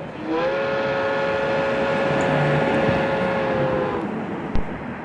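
Train whistle sounding one long held blast, a chord of several steady tones that slides up briefly at the start and stops after about three and a half seconds. A single sharp knock follows near the end.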